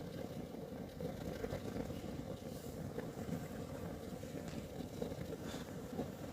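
Kerosene heater burning: a steady low rumble of the flame, with a few faint ticks.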